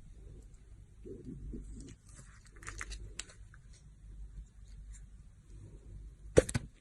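A knife cutting into a bar of soap with a crunchy sound: a few soft knocks, then a run of crisp crackling clicks, and one loud sharp crack near the end.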